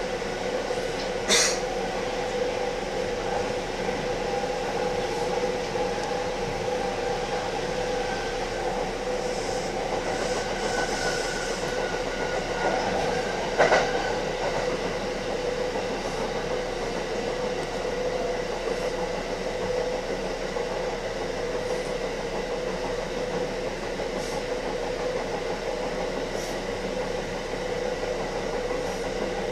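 Kintetsu electric train running at speed, heard from inside the front car: a steady rumble of wheels on rail with a constant motor hum. A few sharp clicks come through, the loudest about a second in and near the middle.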